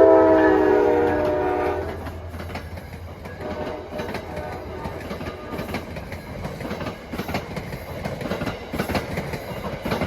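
NJ Transit commuter train's multi-chime locomotive horn sounding a chord that cuts off about two seconds in. The train then rolls past with its wheels clicking irregularly over the rail joints.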